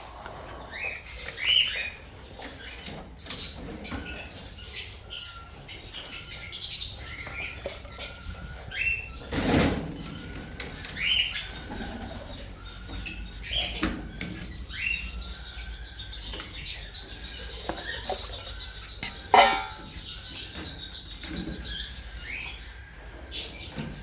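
A flock of small parrots chirping in short rising calls throughout, with wings flapping and scattered clicks. Two louder bursts of noise come about ten and about nineteen seconds in.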